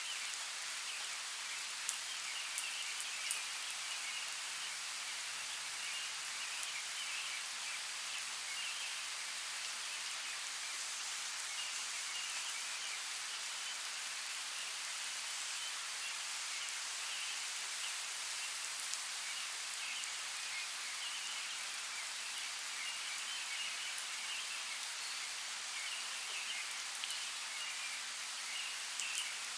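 Steady rain falling in a forest, an even hiss with a few sharper drop ticks about two to three seconds in and again near the end.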